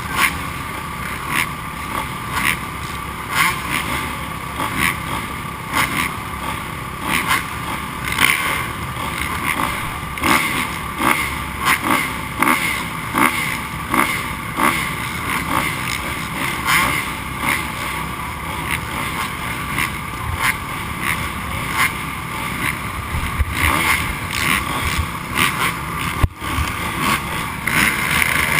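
Several motocross dirt bikes racing around the track, their engines revving up and backing off over and over.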